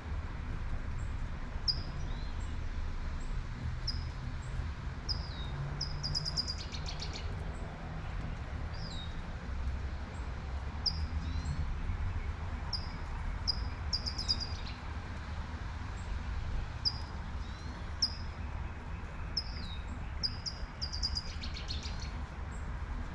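A songbird repeating short high chirps about once a second, with a rapid buzzy trill twice (about six seconds in and again near the end), over the steady hiss of light rain and a low rumble of traffic.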